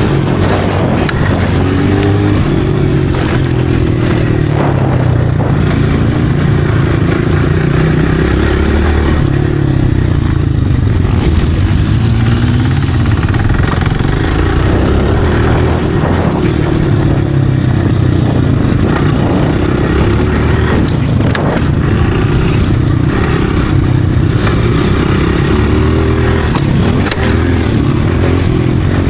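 Motocross dirt bike engine revving up and dropping back over and over as it is ridden, with a few sharp knocks along the way.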